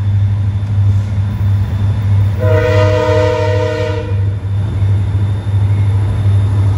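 SWP diesel locomotives working a sand train, their engines running with a steady low drone. About two and a half seconds in, the lead locomotive's air horn sounds one chord of several notes for under two seconds.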